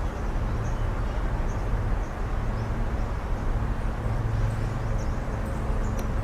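Outdoor ambience: a steady low rumble with faint, short, high bird chirps every second or so.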